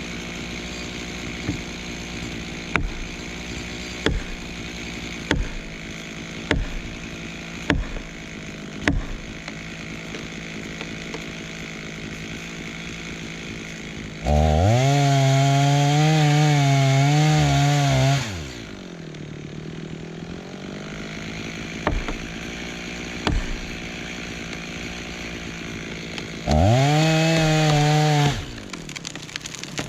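Chainsaw idling, with a run of sharp knocks about once a second in the first nine seconds. About fourteen seconds in it revs to full throttle for about four seconds, its pitch wavering as it cuts, then drops back to idle. It revs and cuts again for about two seconds near the end.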